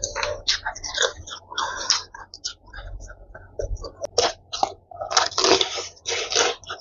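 Close-up eating sounds of a person biting and chewing crispy fried chicken: irregular crunches and chewing noises, louder and busier in the second half.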